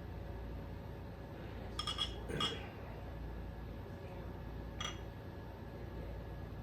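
Glass clinking: a few light ringing clinks about two seconds in and one more near five seconds, as a glass beer bottle and glass are handled.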